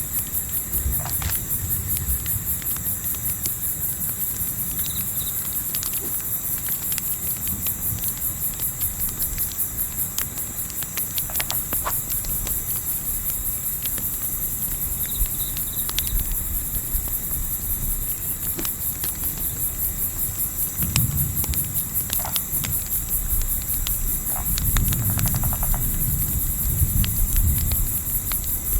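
Night forest ambience: a steady, rapidly pulsing chorus of night insects runs throughout, with scattered crackles and pops from a campfire. A low rumble of wind swells in the last third.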